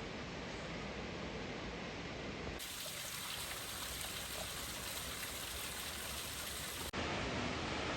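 Steady rush of running and falling water from waterfalls and streams. The sound changes abruptly twice, about two and a half seconds in and near the end, where the footage cuts between spots.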